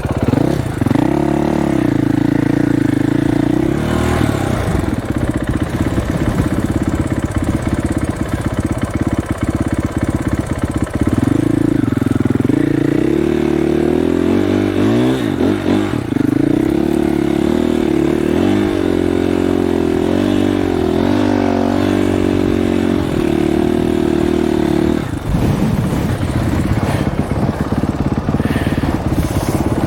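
Dirt bike engine running and revving up and down under changing throttle as it rides, easing off about 25 seconds in, with wind rumbling on the microphone.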